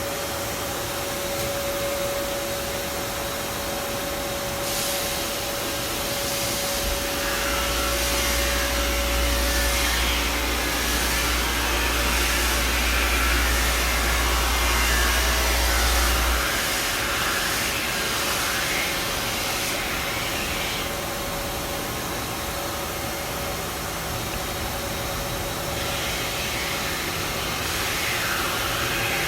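Ski base grinding machine running: a steady hum and hiss, joined by a deep rumble for about ten seconds from a quarter of the way in while the ski base is ground flat and given its structure.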